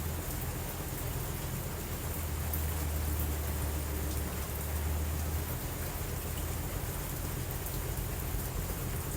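Steady rainfall, an even hiss of drops, with a low continuous rumble underneath that swells and eases.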